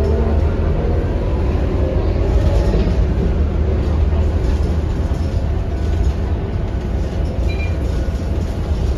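Scania K230UB city bus's five-cylinder diesel engine running steadily as the bus drives, a low, even rumble with road noise over it.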